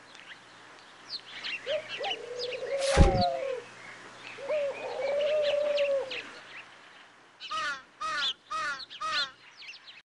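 Night-time bird ambience: many birds chirping, with two long, low cooing calls and a sharp click about three seconds in, then a run of five short calls near the end.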